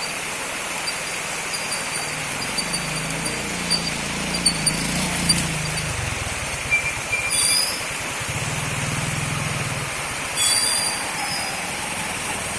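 Steady rush of running water. A low engine hum runs through the middle, and there are two short, high chirps.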